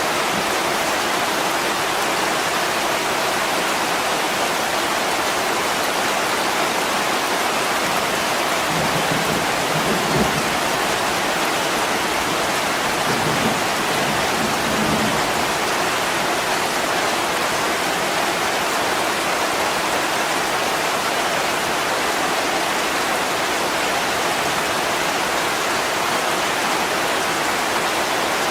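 Steady heavy rain falling on window glass, with a few faint low rumbles between about nine and fifteen seconds in.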